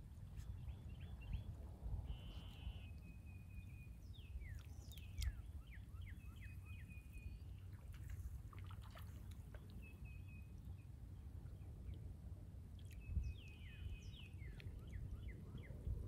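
Wild birds singing: short high whistled notes, buzzy trills and quick falling chirps come and go, over a steady low rumble of outdoor background noise.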